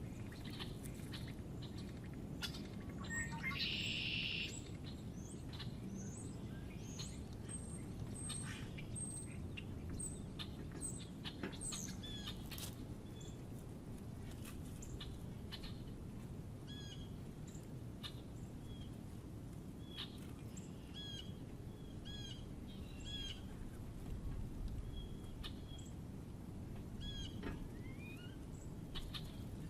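Small wild birds chirping and calling. A run of thin high notes comes in the first half, then short repeated chirps through the second half, over a steady low outdoor rumble.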